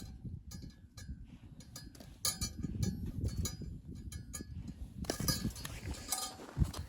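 Repeated light metallic clinks, each with a short ringing tone, over a steady low rumble.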